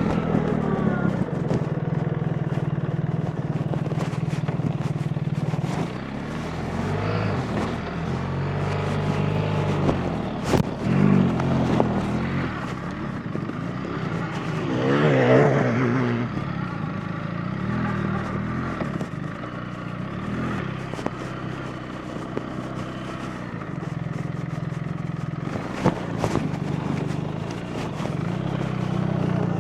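BMW R 1300 GS Adventure's 1300 cc boxer-twin engine under way while ridden off-road, its revs rising and falling several times with the throttle. A few sharp knocks stand out, one about ten seconds in and another near the end.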